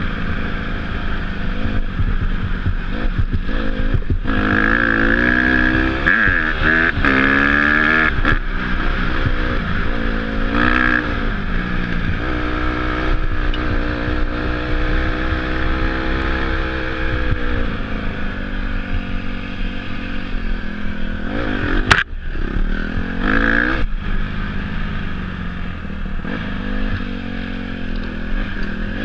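Dirt bike engine revving up and down as it is ridden off-road, its pitch repeatedly rising and falling. A single sharp knock cuts through about two-thirds of the way in.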